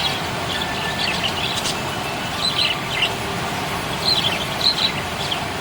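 Budgie chirping in short, quick clusters of twitters, over a steady background hiss.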